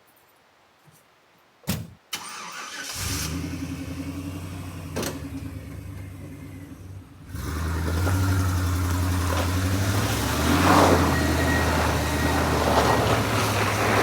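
Two sharp knocks, then the van's engine starts and runs; from about halfway it runs harder with a rush of tyre noise as the van drives up out of the mud onto MAXTRAX traction boards.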